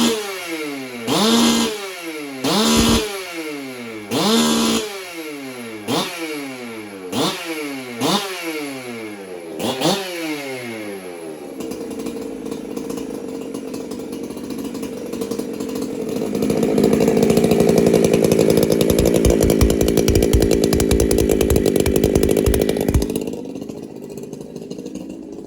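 Freshly rebuilt Jonsered 2065 two-stroke chainsaw on its first start-up, blipped about eight times with each rev falling back. It then settles into steady running, is held at a higher, louder speed for several seconds, and drops back to a quieter idle near the end.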